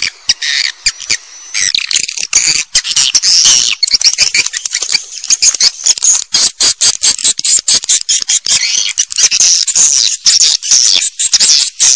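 A swiftlet colony's calls: dense, high twittering chirps, with many rapid sharp clicks running through them. This is the kind of recording played in swiftlet houses to draw in nesting swiftlets.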